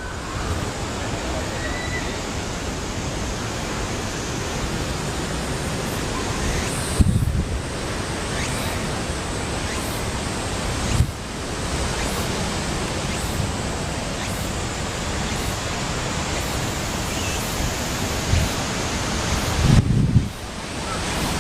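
Strong gusty wind ahead of a typhoon: a steady rushing noise that briefly eases a few times, with low rumbles where gusts buffet the microphone.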